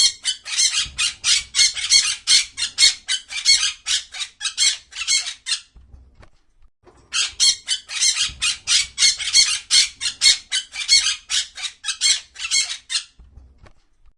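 A bird giving rapid, repeated high-pitched squawking calls, about three to four a second, in two long bouts separated by a pause of about a second and a half.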